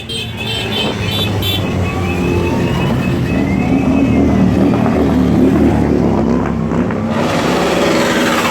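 Motorcycle engines running, with a rev that rises in pitch a couple of seconds in.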